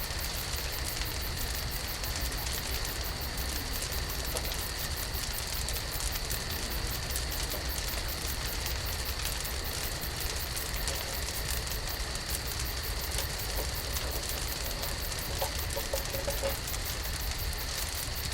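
Campfire grilling: a steady crackle and sizzle over a low rumble, with a faint steady high whine throughout.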